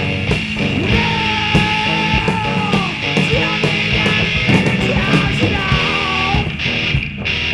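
A rock band playing loud, punk-style rock with distorted guitars and drums. A wavering, bending high line sounds over it twice, once early in the passage and again near the end.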